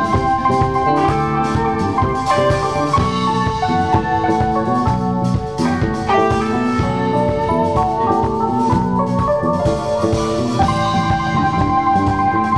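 Live band music: a drum kit keeps a steady beat under held keyboard or organ notes and other instruments, without a break.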